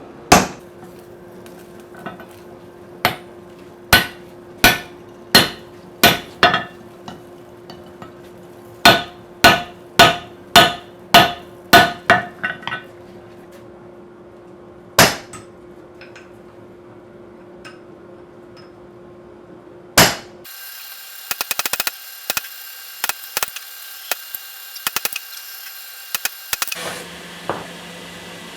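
Hammer blows on a hot steel hammerhead at the anvil, in runs of sharp ringing strikes about one to two a second over a steady low hum. About twenty seconds in, the sound changes to a steady hiss with rapid light ticks.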